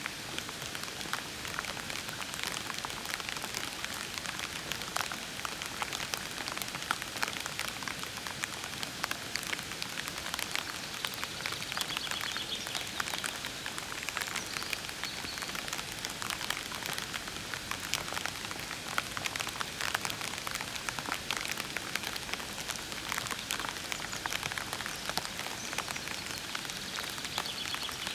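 Steady soft rain falling, with many separate drop hits ticking throughout.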